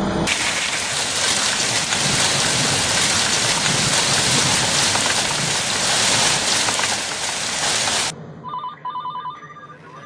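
A loud, steady hiss for about eight seconds that cuts off suddenly, followed by a telephone ringing in short repeated trills.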